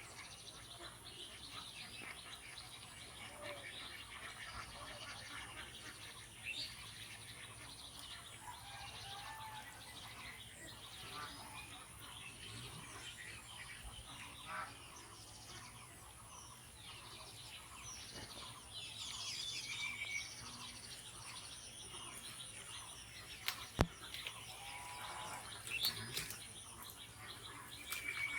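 Faint outdoor birdsong: many small birds chirping and calling, over a steady high hiss. There is one sharp click about two-thirds of the way through.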